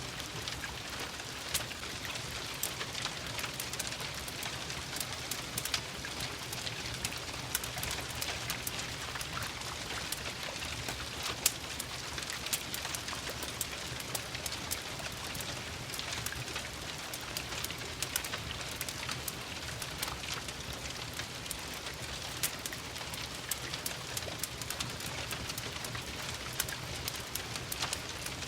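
Steady rain patter mixed with a crackling wood fire: an even hiss dotted with many sharp clicks and pops, one a little louder a little before halfway.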